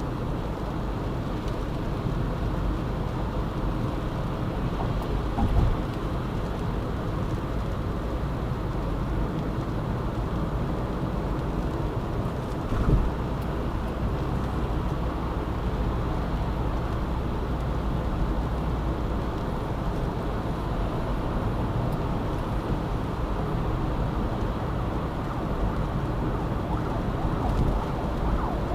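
Steady road and engine noise of a car driving along a multi-lane city expressway, with two brief thumps, about five and thirteen seconds in.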